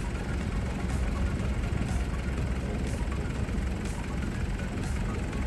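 Heavy diesel engine running steadily, a low rumble, with a faint tick about once a second.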